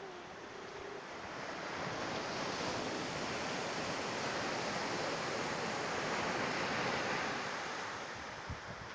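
Ocean surf: one wave's rush of water swells over a couple of seconds, holds, then fades away near the end.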